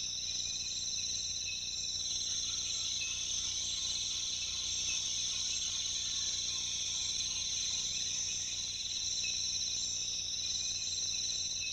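Steady, high-pitched chorus of rainforest insects trilling without a break, with fainter short chirps now and then.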